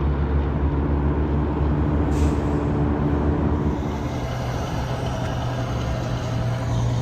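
Heavy trucks and other traffic passing on an interstate highway: steady engine and tyre noise whose low engine tone shifts about four seconds in, with a brief hiss about two seconds in.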